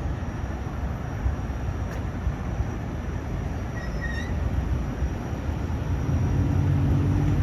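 Long Island Rail Road M9 electric multiple-unit train running at the station: a steady low rumble, with a hum from the train growing stronger near the end.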